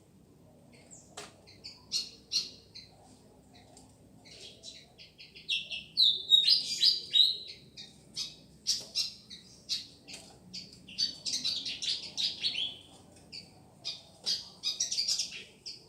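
A fantail (kipasan) singing a busy run of quick, high chirping notes. The phrases are loudest about six seconds in and again near twelve seconds.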